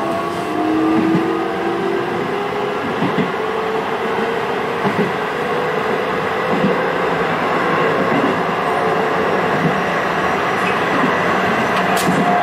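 Hokuso 7800 series electric train heard from inside the car while running, with a steady rumble of wheels on rail. A motor tone from the Toyo GTO-VVVF inverter drive rises slowly in pitch during the first half, and a few faint clacks come from the wheels.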